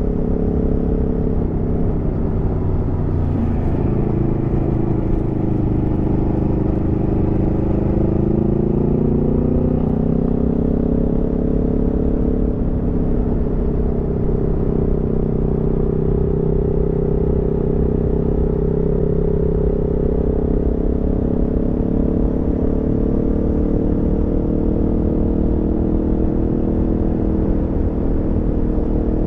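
Aprilia Tuono V4 motorcycle's V4 engine running under way. Its note drops about three seconds in, climbs again a few seconds later, then holds a steady pitch.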